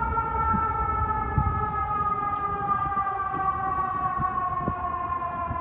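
Fire truck siren wailing, its pitch falling slowly and steadily as it winds down, over a low engine and road rumble.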